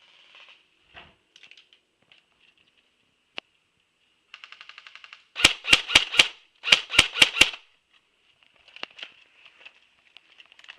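Airsoft guns firing: a short fast rattle of shots, then two quick strings of four sharp, loud snaps about a second apart.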